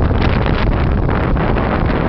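Strong wind buffeting the microphone: a loud, steady rumble that flutters throughout.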